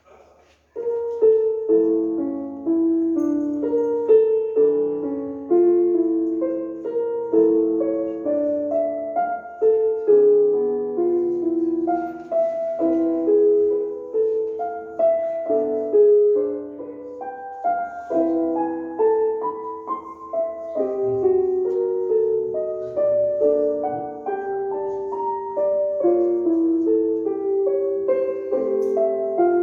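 Piano piece beginning about a second in: a melody over chords at a gentle, even pace.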